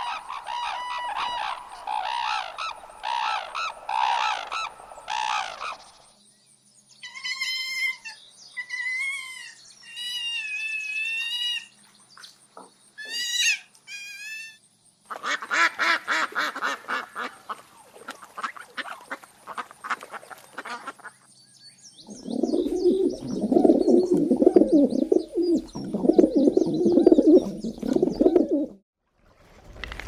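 Calls of several different birds in turn, in short cuts, some as spaced, whistled notes that rise and fall, others as dense runs of calls. The calls stop abruptly a little before the end.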